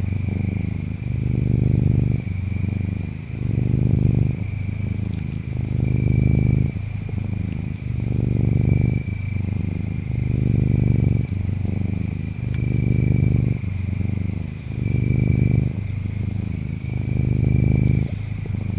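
Domestic cat purring close up, a low buzzing rumble that swells and fades with each breath in a steady rhythm. Behind it, insects chirp: a thin steady trill with brief louder chirps about every two seconds, and a high-pitched chirring.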